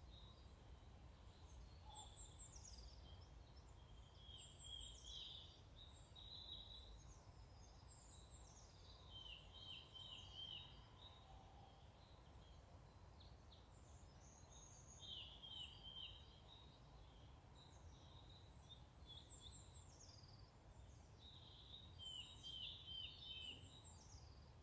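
Faint birdsong: songbirds repeating short, high phrases every few seconds, over a low steady outdoor rumble.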